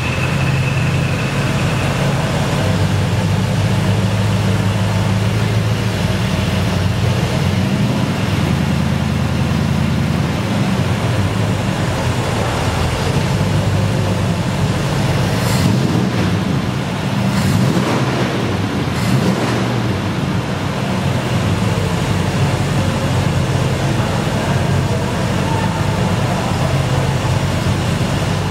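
1987 Chevrolet El Camino's small-block V8 running steadily at idle, with a few brief blips of the throttle about two-thirds of the way through.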